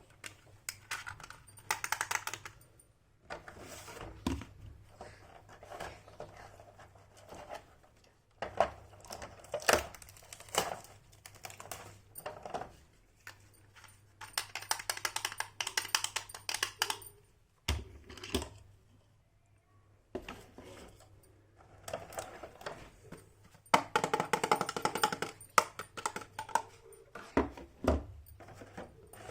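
Small plastic toy pieces and their packaging being handled: irregular clicks and light knocks with bursts of crinkling, broken by short quiet gaps.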